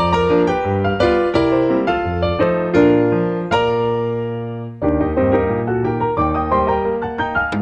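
Background piano music: a steady run of struck notes, with a held chord near the middle that dies away before the playing picks up again.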